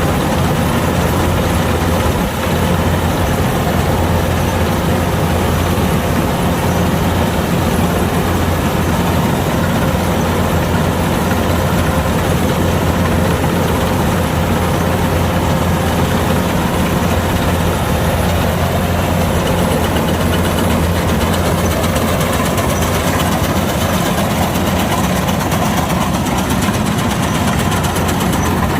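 Kubota DC-105X combine harvester's diesel engine and machinery running steadily: a constant low drone with a faint steady whine above it.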